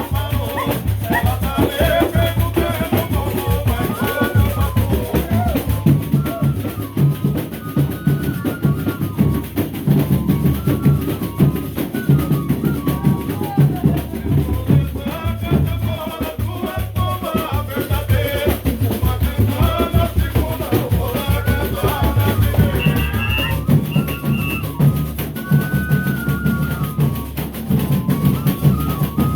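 Folia de Reis music played live: a steady drum beat with rattling shaker-like percussion, and voices singing the melody over it.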